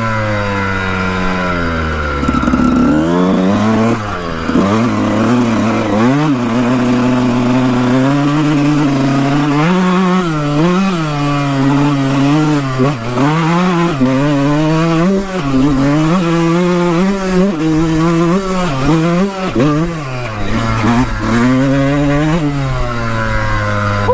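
Dirt bike engine running as it is ridden, its pitch rising and falling over and over with the throttle.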